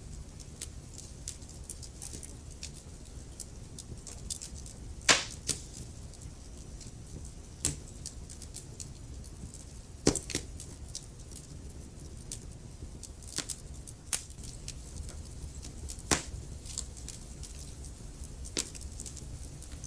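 Wood fire burning in a fireplace: logs crackling with frequent small snaps over a low steady rumble of the flames, and a few louder pops, the biggest about five, ten and sixteen seconds in.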